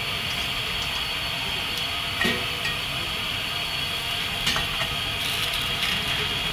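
Chopped onion, green chillies and peanuts sizzling in hot oil in an iron kadhai, a steady frying hiss. Two light knocks come about two seconds in and again about four and a half seconds in.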